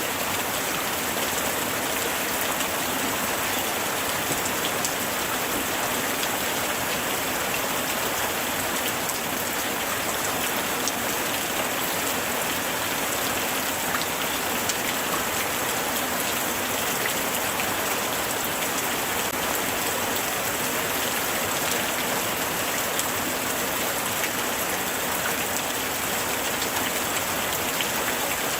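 Steady light rain falling, an even hiss of drops with many small fine pattering ticks.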